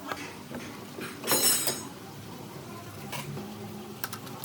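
Hard objects, likely metal parts, clattering and scraping: one loud scrape with a high ring about a second in, then a few sharp clicks near the end.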